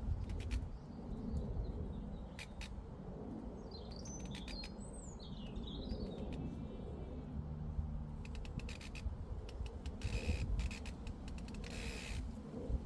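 A bird chirping in a few short, rising and falling phrases about four to six seconds in, over a steady low rumble of breeze on the microphone and scattered soft clicks.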